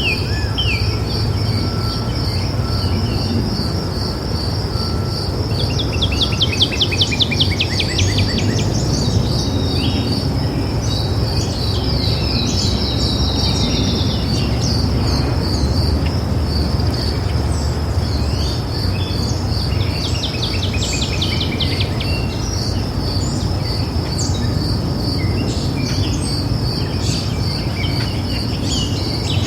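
Wild birds singing in several bursts of fast, trilling song over an insect's steady, high, evenly pulsing trill, with a low steady rumble of background noise underneath.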